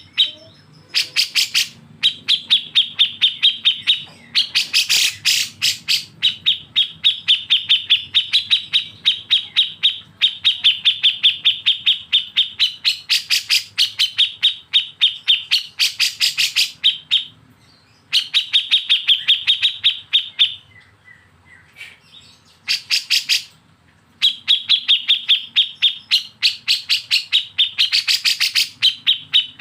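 Bulbul song in long runs of rapid, evenly repeated notes, about seven a second, broken by short pauses: the fast stuttering 'besetan' style of song. Some runs rise higher and louder, and a softer, sparser patch of notes comes past the middle.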